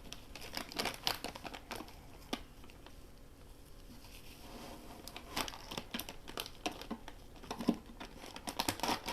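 Paper rustling and crinkling as it is handled and pressed down, in short scattered crackles that thin out for a few seconds in the middle.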